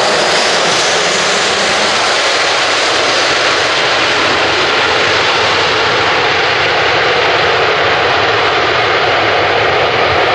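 Boeing 737-800's CFM56-7B jet engines running loud and steady, an even rushing noise with no breaks; its highest hiss thins slightly toward the end.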